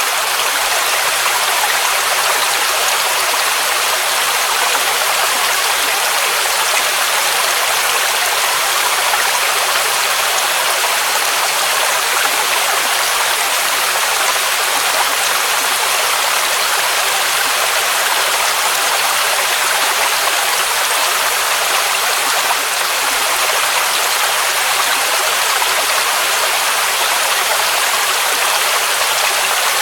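Waterfall rushing in a steady, even hiss with little deep rumble, unbroken throughout.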